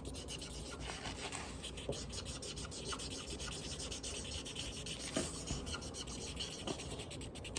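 A drawing tip rubbing steadily back and forth on paper as an area is coloured in pink.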